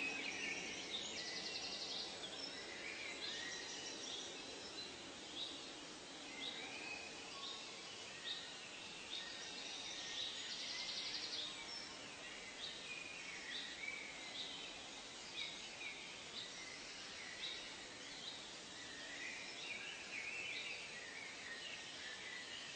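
Several birds calling and chirping over a steady background hiss, with a short buzzy trill about a second in and again about ten seconds in.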